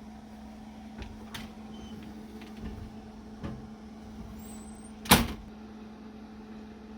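A few light knocks and one sharp clack about five seconds in, over a steady low hum.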